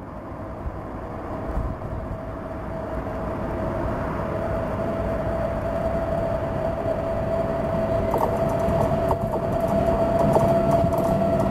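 VR InterCity train behind an Sr2 electric locomotive approaching and growing steadily louder, with a steady high whine. From about eight seconds in there are clicks of the wheels over the rails.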